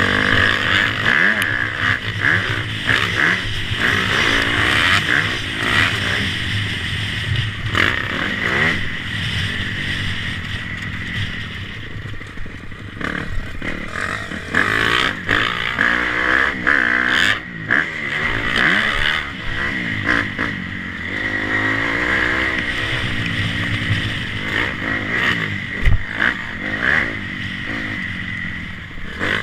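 Motocross bike engines revving up and down, their pitch rising and falling over and over as the throttle opens and shuts. A single sharp thump sounds near the end.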